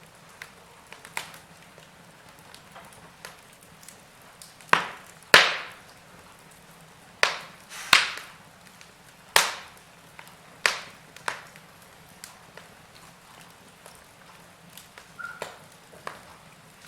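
Wood fire in a fireplace crackling: scattered small ticks and sharp pops at irregular moments, with several louder snaps clustered in the middle.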